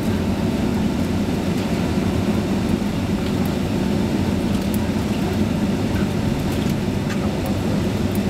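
Steady low cabin rumble of a Boeing 767-336 taxiing after landing, its Rolls-Royce RB211 engines at idle, heard from inside the passenger cabin.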